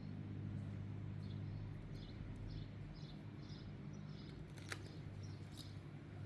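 Small birds chirping: a run of short, high chirps about a second to three and a half seconds in, over a steady low hum. A sharp click comes a little before five seconds in.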